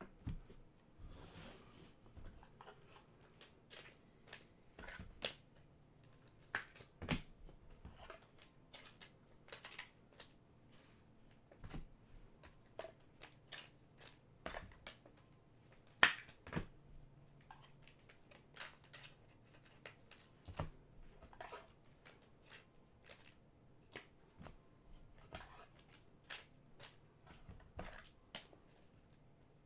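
Trading cards being handled and sorted on a table: soft, irregular clicks and rustles, one or two a second, with one sharper click past the middle.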